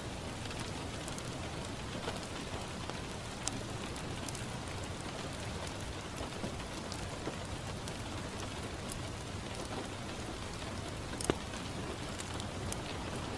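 Steady rain pattering on a window glass, with a few sharp pops from a crackling wood fire scattered through it, the loudest about eleven seconds in.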